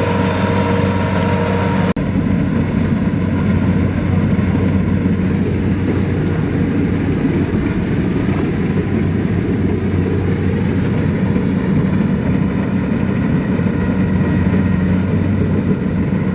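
Large farm machine's diesel engine running steadily at a constant pitch, with a steady low hum. The sound shifts abruptly about two seconds in.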